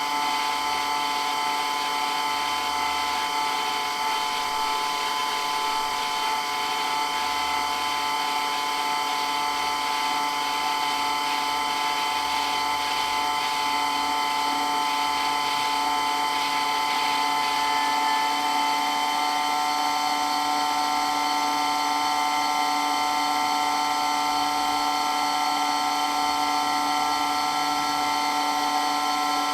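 Water pump running steadily, a continuous whine made of several steady tones.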